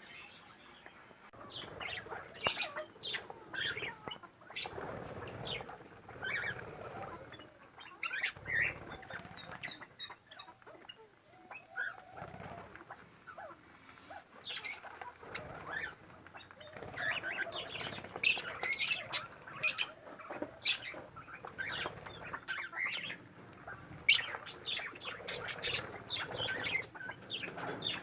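Aviary birds flapping their wings in repeated irregular flurries, with short sharp sounds mixed in.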